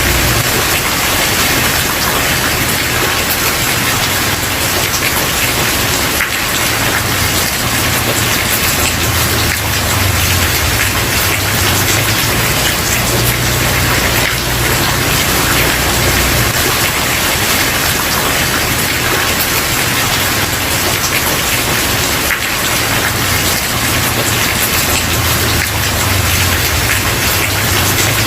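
Steady heavy rain falling on a wooden porch, a dense even patter with a low rumble underneath that swells and fades.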